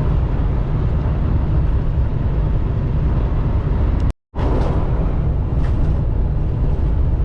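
Steady low rumble of a semi-truck cab cruising at highway speed, engine and road noise together. The sound cuts out completely for a split second about four seconds in, then carries on unchanged.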